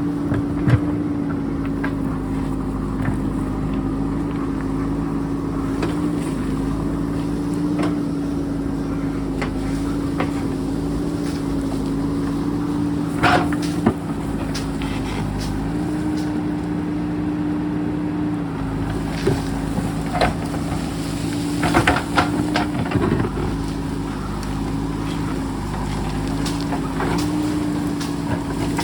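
JCB backhoe loader's diesel engine running steadily, its pitch stepping up and down a little as the load changes, with a few sharp knocks and clatters of digging in rock.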